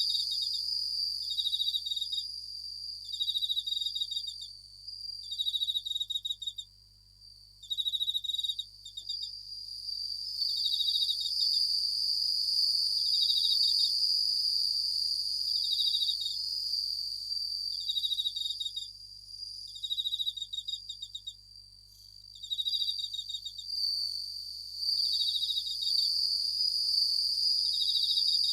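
Japanese bell crickets (suzumushi) singing: a steady high ringing trill overlaid with short bursts of pulsed chirps that repeat every second or two, briefly thinning out twice.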